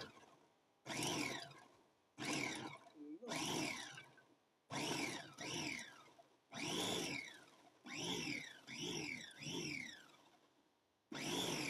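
Kaisa Villa electric food processor/meat grinder run in short pulses, about ten in all. Its motor starts with a loud whine each time and falls in pitch as it winds down after the button is let go.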